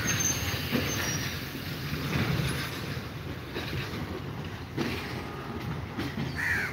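Train wheels rumbling on the rails with a few knocks over the joints and points, fading as the train draws away.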